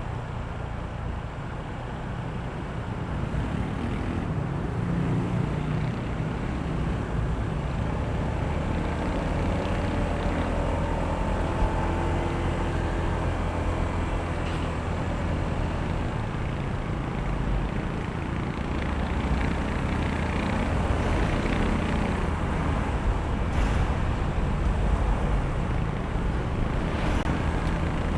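Honda ADV160 scooter's single-cylinder engine running under way, with road and traffic noise around it. It gets louder about three to four seconds in and then runs on steadily.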